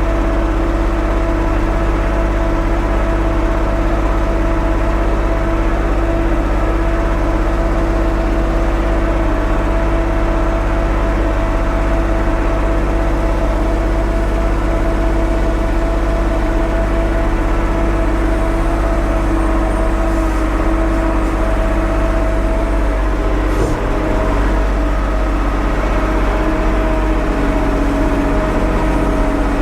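Engine of a 1975 Ford 550 backhoe running steadily at constant speed, a continuous even hum with no revving.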